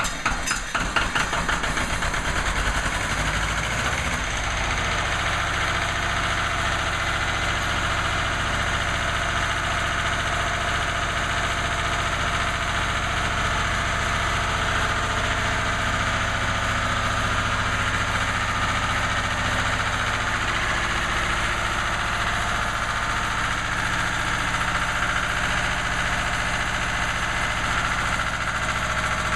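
Lister Petter diesel engine catching on a cold start. Its separate firing strokes quicken over the first few seconds, and then it settles into steady running.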